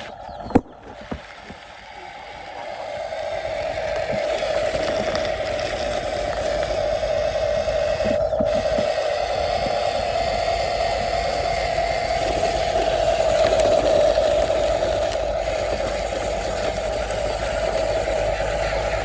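Electric drive motor and gearbox of a Huina 1573 remote-control dump truck whining steadily as it drives, growing louder over the first few seconds.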